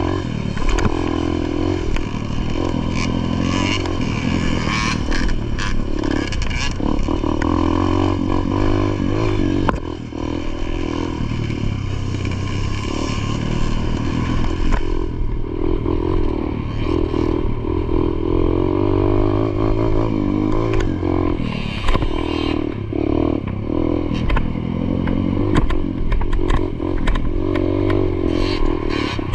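Motocross dirt bike engine revving, its pitch rising and falling again and again as the throttle opens and closes, with rattling and clatter over the top.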